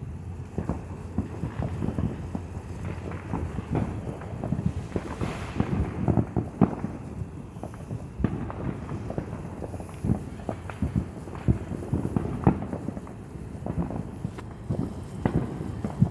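Neighbourhood fireworks and firecrackers popping and crackling in the distance: many irregular pops, some close together in quick runs, others spaced out.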